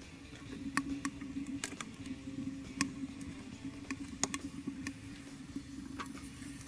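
Small twig-and-leaf fire crackling in the fire base of a ghillie kettle, with irregular sharp pops and snaps over a steady low hum.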